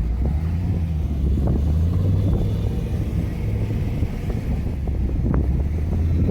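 A car engine running steadily with a low hum, with wind buffeting the microphone.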